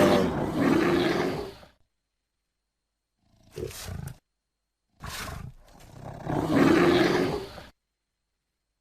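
Bear roaring and growling in separate edited clips: a long roar at the start, a short growl about three and a half seconds in, then another long roar from about five seconds in. Each call cuts off abruptly into dead silence.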